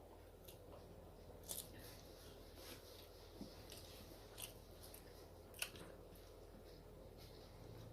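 Faint eating sounds: a handful of short, sharp mouth clicks and smacks from chewing, spaced about a second apart, over a low steady hum.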